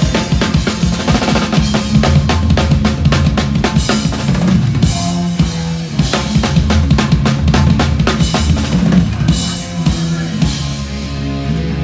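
Hardcore punk band playing live and loud, with a fast drum kit pattern to the fore over sustained bass and guitar notes. The cymbal and snare hits thin out near the end.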